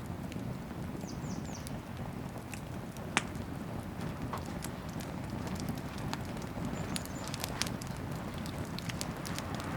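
Wood bonfire burning: a steady low rush of flames with scattered crackles and pops, the sharpest a little over three seconds in.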